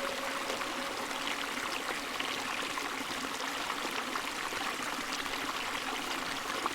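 Water flowing and trickling: a steady stream sound with small splashy ticks.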